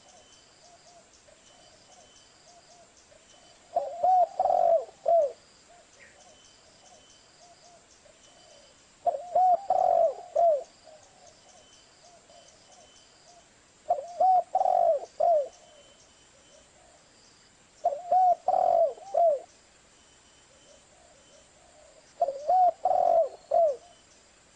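Zebra dove (perkutut) cooing: five bouts of a few quick rolling coo notes, about one every four to five seconds, with fainter cooing in between.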